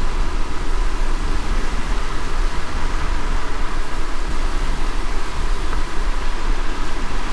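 A car driving in light rain: a steady low road rumble under an even hiss of rain.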